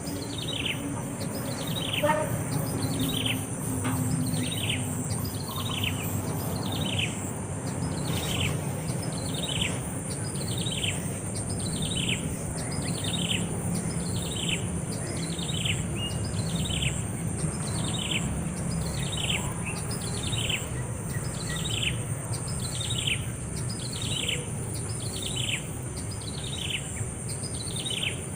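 A bird repeating a short call that falls in pitch, very regularly, about once a second, with a steady high insect-like whine beneath.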